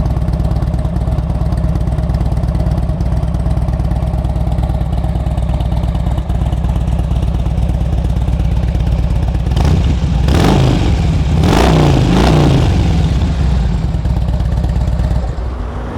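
2007 Harley-Davidson Ultra Classic's 96-cubic-inch V-twin with aftermarket slip-on mufflers, idling steadily. About ten seconds in it is revved in a few quick throttle blips, then settles back to idle.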